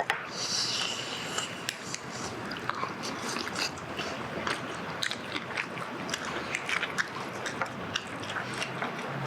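A person biting and chewing crispy charcoal-grilled chicken, with many small crunches and clicks.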